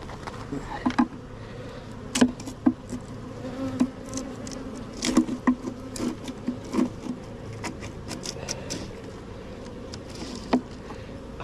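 Honeybees buzzing with a steady hum in an opened hive, broken by many irregular sharp clicks and cracks of a hive tool prying at frames glued with propolis and burr comb.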